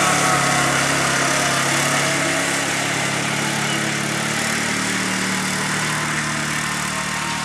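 Engine of an old pull-behind lawn mower running steadily while it mows, with a slight change in pitch about halfway through.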